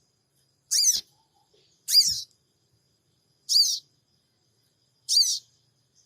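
Sogon, a small sunbird, giving its sharp, high 'cingik cingik' call four times, each a quick chirp about a second and a half apart, as played for a lure recording to set other sogon birds calling.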